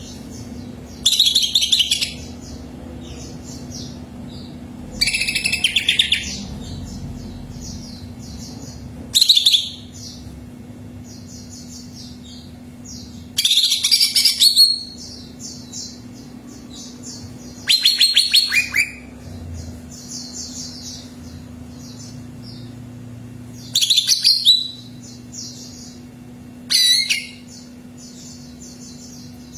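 Green leafbird (cucak ijo) song: seven loud bursts of rapid, high, trilled notes about every four seconds, with softer quick chirping in between, over a steady low hum.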